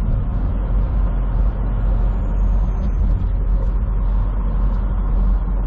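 Steady low rumble of a semi truck's engine and road noise, heard from inside the cab while driving.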